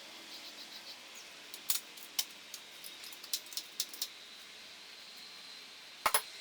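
Scattered light metallic clicks and clinks of hand tools and bolts being handled on an engine during teardown, with a louder double clink near the end.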